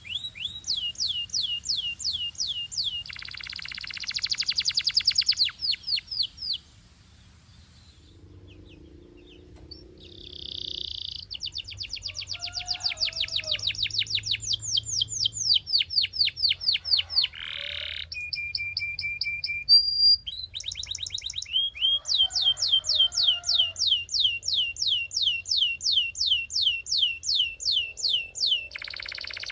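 Belgian canary singing: long trills of rapidly repeated, high sweeping notes, broken by a lull of a few seconds about a quarter of the way through before the trills start up again.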